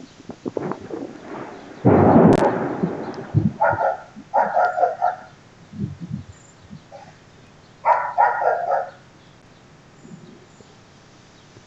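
A dog barking in two short runs of rapid barks, with a loud, sudden crack-like noise about two seconds in.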